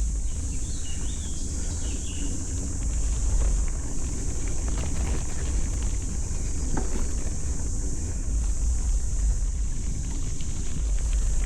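Wind buffeting the microphone of a camera riding on a moving bicycle: a steady low rumble with a haze of air and rolling noise, and a few faint high chirps about a second in.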